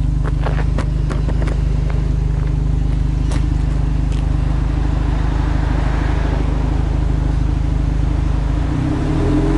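Subaru Impreza WRX STI's turbocharged flat-four boxer engine idling steadily, heard from behind at its quad exhaust tips. Just before the end the revs begin to climb as the throttle is blipped. A few light clicks in the first seconds.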